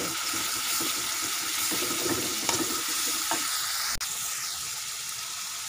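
Chilies, shallots, garlic and dried anchovies sizzling in a wok with a splash of water while a metal spatula stirs them. A sharp click about four seconds in, after which the sizzle is a little quieter.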